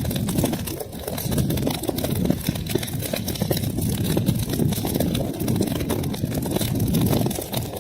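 Wood fire burning in a fireplace: a steady low roar of the flames with many small sharp crackles and pops scattered throughout.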